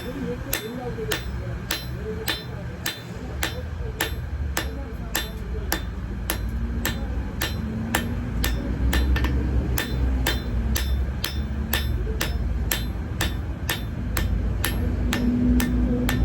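Hand hammer striking hot metal on an anvil in a steady rhythm, about three blows every two seconds, with a low rumble underneath.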